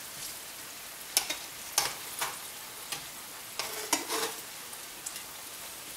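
Diced potatoes sizzling in shallow oil in a frying pan, with sharp clicks and scrapes of metal tongs against the pan as the pieces are turned, a few times across the stretch.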